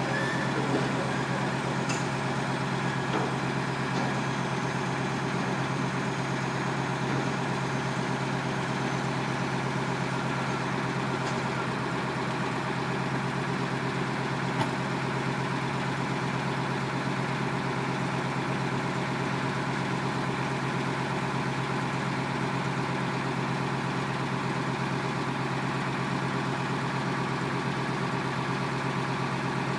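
Heavy truck engine idling steadily, with a few faint clicks.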